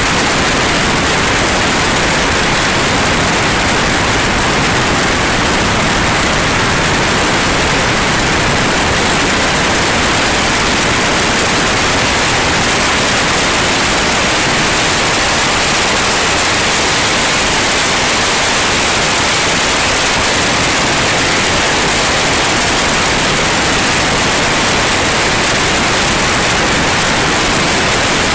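Steady, loud rushing cabin noise of a light aircraft in flight, with engine, propeller and airflow blended into one even roar.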